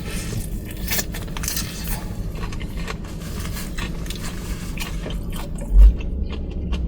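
A person biting into and chewing fried chicken, with short crunches and wet mouth sounds over a steady low hum, such as a car makes. A dull low thump comes near the end.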